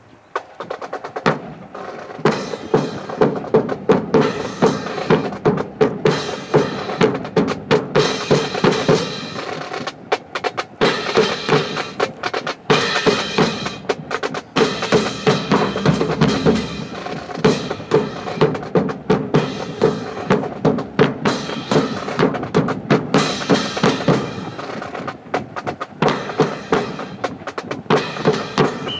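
Marching snare and bass drums playing a fast, steady cadence, starting about a second in.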